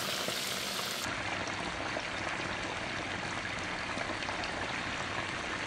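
Flour-and-cornstarch-coated chicken wings shallow-frying in hot oil in a skillet: a steady sizzle, which dulls slightly about a second in.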